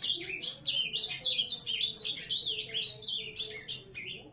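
Ultramarine grosbeak (azulão) singing a fast, continuous warbling song of quick up-and-down notes, breaking off just before the end.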